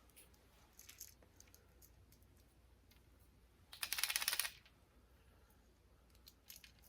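Bagley Rattlin' Kill'r B squarebill crankbait, a hollow plastic lure, shaken by hand so its internal rattle clicks rapidly for under a second, about four seconds in. A few faint handling clicks come before and after.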